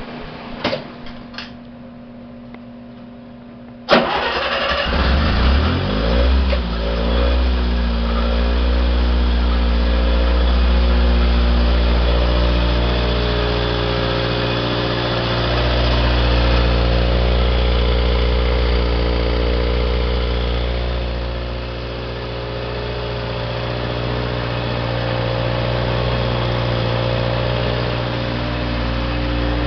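Onan 15 kW standby generator's engine auto-starting after utility power is cut: a few light clicks, then about four seconds in it cranks and fires at once, its pitch rising for a few seconds as it comes up to speed, then running steadily at governed speed.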